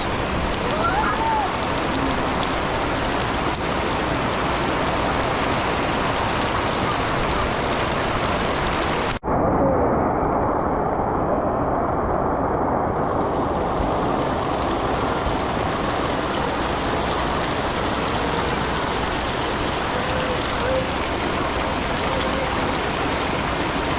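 Steady rainfall, an even hiss of rain hitting the surroundings. About nine seconds in the sound cuts out for an instant and comes back duller for a few seconds before the full hiss returns.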